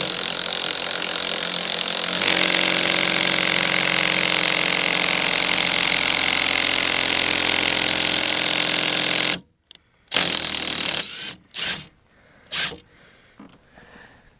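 Handheld electric power tool, drill-type, running steadily for about nine and a half seconds, used to turn a fastener on the snowmobile's bogey wheel. It gets louder and higher about two seconds in as it takes up the work, then stops suddenly; a few short knocks follow.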